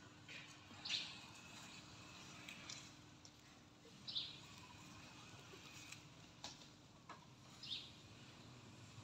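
Quiet outdoor background with three short, high bird chirps a few seconds apart, plus a few faint clicks.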